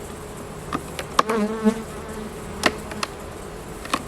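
Honey bees humming steadily in an open hive, with a louder wavering buzz of a bee close by about a second in. Several sharp clicks and knocks come from the frames being pried loose where the bees have glued them together with propolis.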